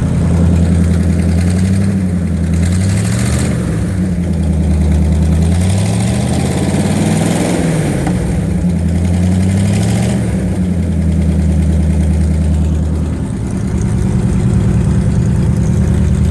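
Cockshutt 555 combine's Chrysler 318 industrial V8 running through a straight-pipe flex exhaust just after a cold start. The throttle is cracked open twice, revs rising and falling each time, then the engine settles to a steady idle about ten seconds in.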